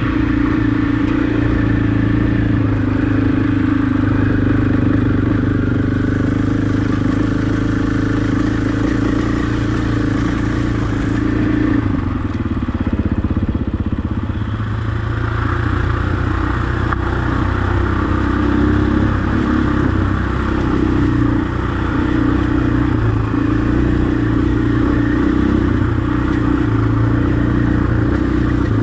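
Husqvarna enduro dirt bike engine running steadily while being ridden. Its note shifts and wavers for a few seconds about halfway through, then settles back to a steady run.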